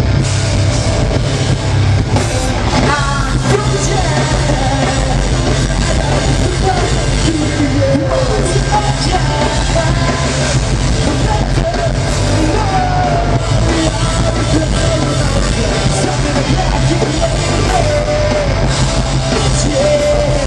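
Live rock band playing loud, with drum kit, a heavy bass end and a singer's voice over the top.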